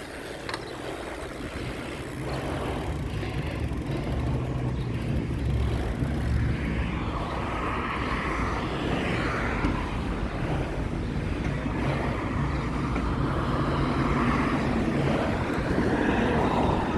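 Road traffic: a motor vehicle's engine running with a steady low hum over a haze of road noise, getting a little louder after about two seconds.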